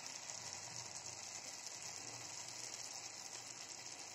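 Onion-tomato masala frying gently in oil in a kadai: a steady, soft sizzle with fine crackling.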